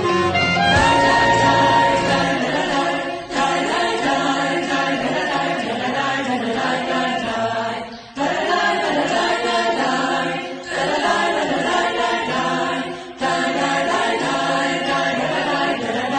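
Choir singing in phrases, with brief pauses between them every few seconds.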